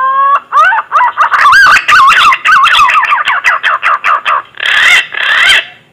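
Punai (green pigeon) call played as a lure: a long rising whistle, then a quick run of warbling, wavering whistles, ending in two harsher, raspy notes.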